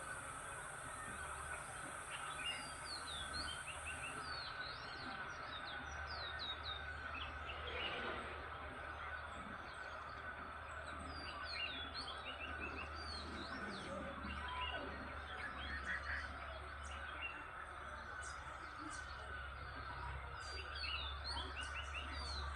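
Many small birds chirping in a morning chorus, short quick chirps overlapping throughout over a steady background din. A steady high hiss stops about four seconds in.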